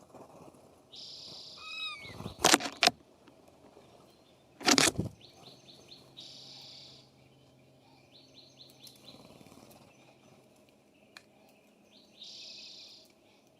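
Songbirds calling at a feeder: several buzzy, rasping notes about a second long, runs of quick chirps and a few down-slurred notes, broken by two loud harsh bursts, one about two and a half seconds in and one about five seconds in.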